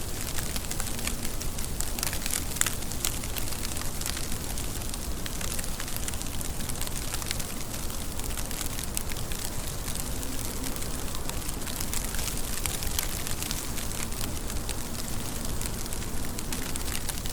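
Steady rain with many individual drops ticking and pattering on a surface.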